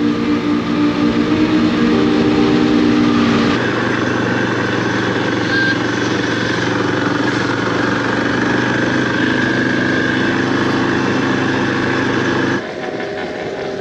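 Motorcycle engine running steadily while riding, with an even drone. There is an abrupt change in the sound a few seconds in, and it cuts off suddenly near the end.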